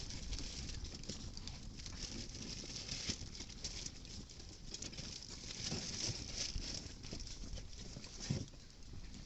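Campfire crackling with irregular small pops and snaps, with wind rumbling on the microphone.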